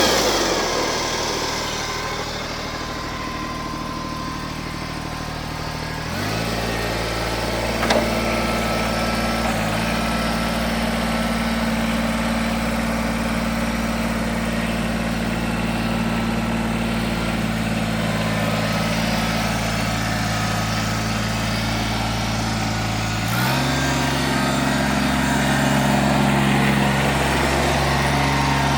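Kubota BX2370 compact tractor's three-cylinder diesel engine running, settling to a low idle at first, then its speed steps up about six seconds in and again a few seconds before the end. A short click comes about eight seconds in.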